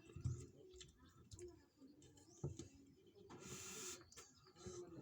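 Faint sounds of eating a meal: scattered small clicks and knocks, and a short hiss a little past three seconds in.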